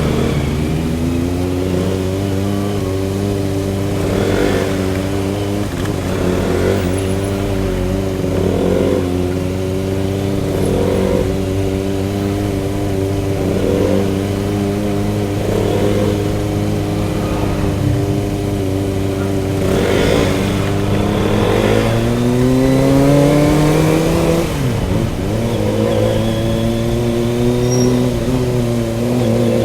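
Motorcycle engine running at low, fairly steady revs on the road, with small throttle changes. About two-thirds of the way through the revs climb, then drop sharply and settle again.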